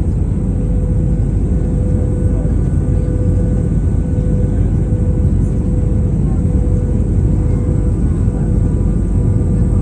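Steady cabin noise of a passenger plane in flight: a loud, even low rumble with a steady hum on top.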